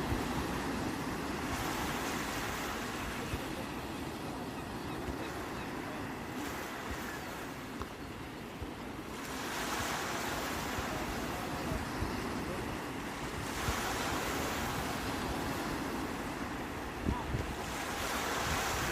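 Sea waves breaking and washing on the shore, swelling louder and easing off in slow surges a few seconds apart, with wind rumbling on the microphone.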